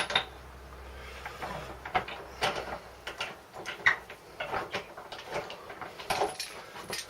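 Irregular clicks and knocks of hand tools on metal as the spark plug is taken out of a small Briggs & Stratton mower engine, with a low hum for the first three seconds.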